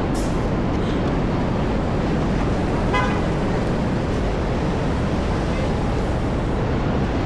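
Steady downtown street traffic noise, with a short car horn toot about three seconds in.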